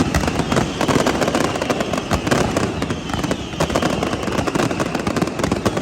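Fireworks going off: a dense, rapid crackle of sharp bangs, with a high whistle slowly falling in pitch above it.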